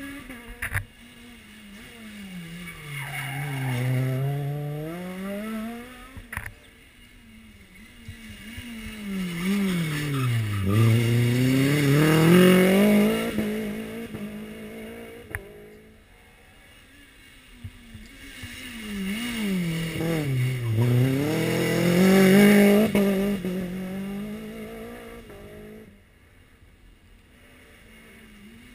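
Rally car engines passing three times. Each time the engine note drops as the car brakes and then climbs as it accelerates away, with a few sharp cracks in between.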